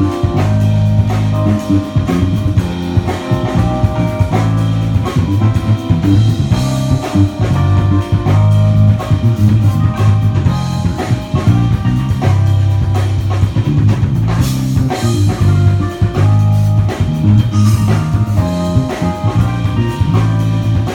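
Band playing with drum kit, guitar and a strong, steady bass line.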